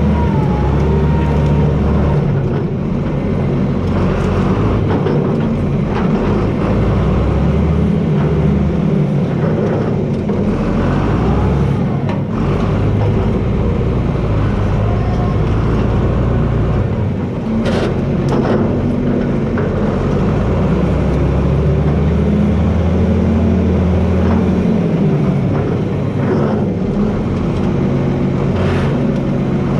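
John Deere 4320 tractor's six-cylinder diesel engine running under varying load, its pitch rising and falling as it works. There are a couple of sharp knocks about halfway through and again near the end.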